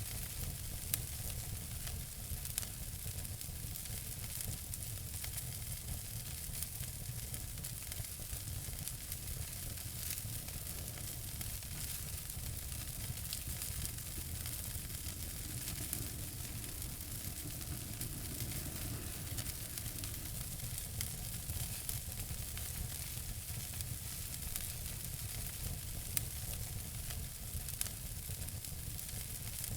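Wood fire in a fireplace crackling and hissing steadily over a low rumble, with frequent small snaps and a few louder pops.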